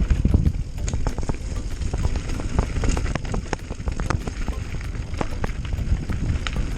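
Mountain bike riding down a dirt trail: a constant low rumble from the tyres on rough ground, with frequent clicks and rattles from the bike.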